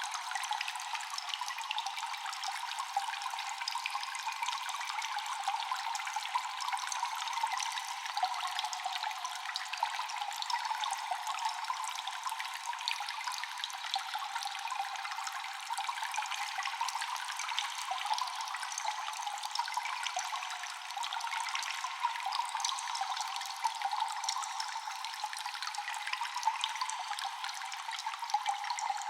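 Constant dripping and trickling water echoing in a cave: many small drips over a steady wash of running water, thin with no bass.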